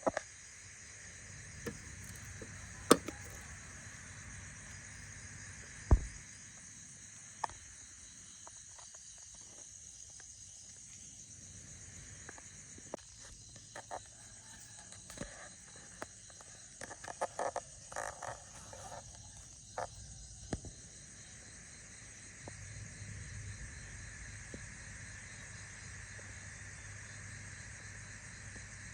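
Steady high-pitched insect chirring, with scattered sharp clicks and taps, the loudest about 3 and 6 seconds in and a small cluster about 17 to 18 seconds in.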